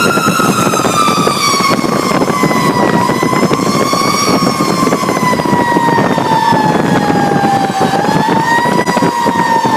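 Fire truck siren sounding during an emergency response, its pitch sliding slowly down with two brief rises, over the truck's engine and road noise.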